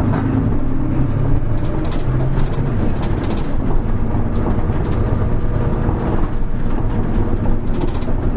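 Hino Rainbow HR city bus (KL-HR1JNEE) heard from inside the cabin while under way. The engine hum rises and falls in pitch as the bus drives, with a few short high clicks or rattles about two to three seconds in and again near the end.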